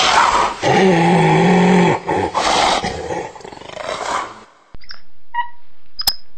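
A large animal growling and roaring loudly in rough calls, with one long call held for over a second near the start. Then a sudden cut to a few faint, sharp high chirps and a click.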